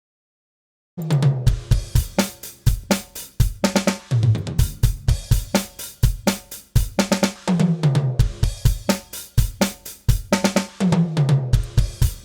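Playback of a DrumGizmo virtual acoustic drum kit groove, kick, snare, hi-hat and cymbals, mixed with overhead and room tracks that carry simulated mic bleed through reverb. It starts about a second in and plays on as a steady beat.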